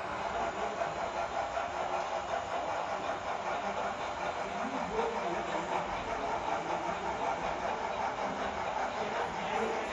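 HO scale model passenger train running, its two locomotives' Tsunami 2 sound decoders playing steady running sounds through small onboard speakers, mixed with wheel noise on the track.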